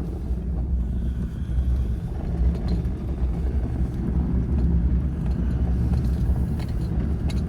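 Pickup truck driving in four-wheel drive: a steady low engine and tyre rumble.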